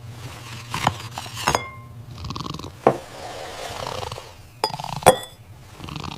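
Kitchen clinks and knocks of dishes and utensils: about half a dozen light strikes spread out, some ringing briefly, with soft rustling between them.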